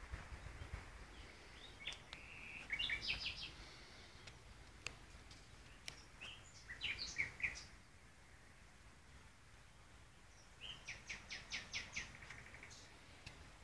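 A bird singing three short phrases of quick, high repeated notes, a few seconds apart.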